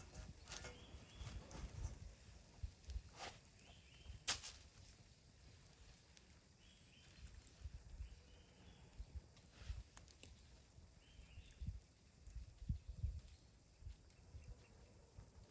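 Quiet forest ambience: a soft low rumble with a few sharp clicks, the loudest about four seconds in, and faint short high chirps now and then.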